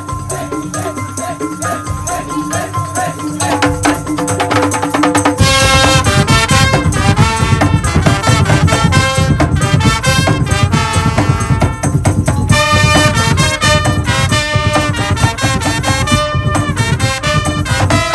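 Madurese tong-tong music played by a percussion ensemble. It opens more quietly on held, wavering melody tones, then about five seconds in the full band comes in with dense, rapid percussion under the melody.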